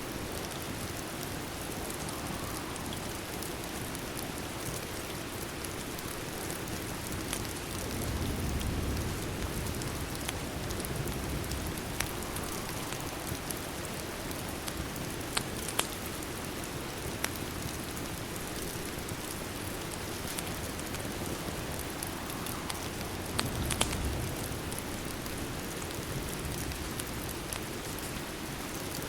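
Steady rain pattering, mixed with the occasional sharp crackle of a wood fire. Two brief low swells come about eight seconds in and again near twenty-three seconds.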